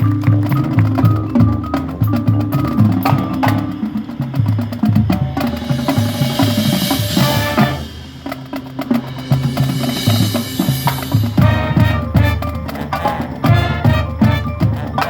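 A band playing rhythmic music driven by drums and percussion, with steady low bass notes under quick, repeated drum strokes and a brighter, hissier stretch in the middle.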